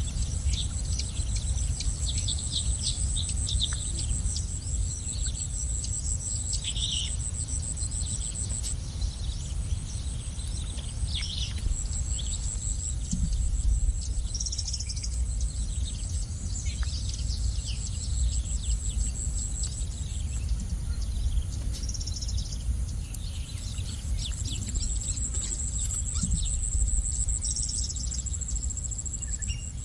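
Small birds chirping in short, scattered calls over a continuous high-pitched insect trill that breaks off and resumes several times, with a low steady rumble underneath.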